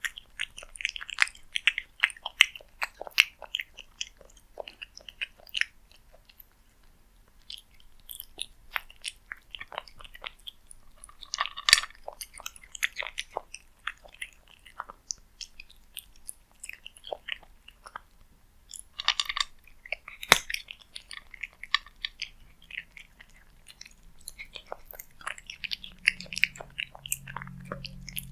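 A cat chewing and crunching its food at close range, in irregular runs of quick clicky bites with a short lull about six seconds in.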